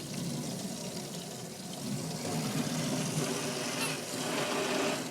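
Water spraying steadily against the car's body and windows, heard from inside the cabin as the car is washed.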